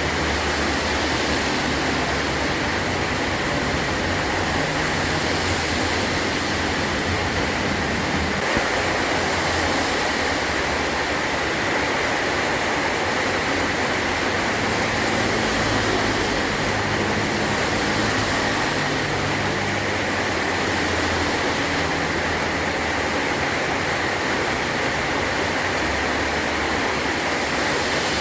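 Heavy rain pouring steadily onto a metal roof, a dense, even hiss and patter with a low rumbling underneath.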